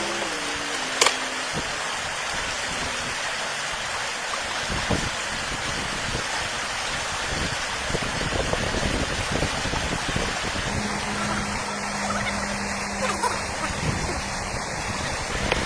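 Steady rushing of flowing water, with a sharp click about a second in and a faint low hum for a few seconds near the end.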